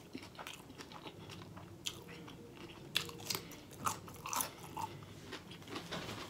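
Close-miked chewing of a dill pickle spear, with scattered crunches that grow louder between about three and four and a half seconds in.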